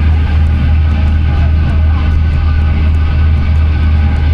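A cruise boat's engines droning steadily underway, a loud, even low hum with no change.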